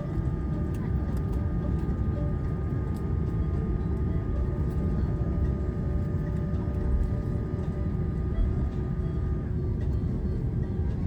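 Airliner cabin noise on arrival: a steady low rumble from the jet engines and airframe, with a few steady whining tones above it. The highest whine stops near the end.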